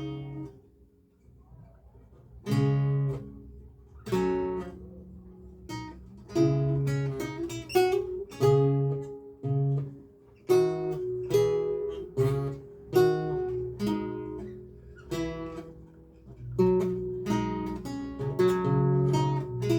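A lute being played solo, practising a recercar: plucked single notes and chords in phrases, each ringing and fading, with a short pause near the start before the playing resumes.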